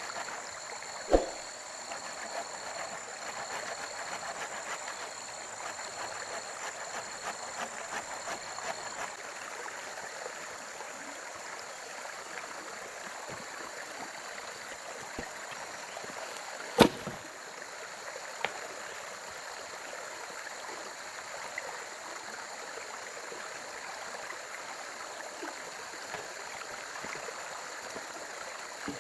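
Steady rushing of flowing water, broken twice by a single sharp knock, about a second in and again near the middle.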